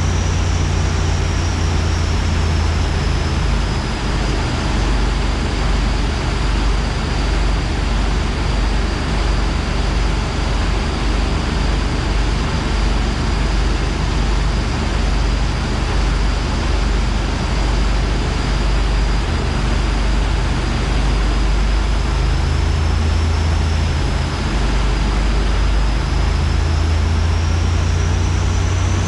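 Turbocharged LS-engined car cruising at a steady engine speed: a constant low drone with a thin high whine over it. Near the end the engine pitch and the whine rise together as it accelerates.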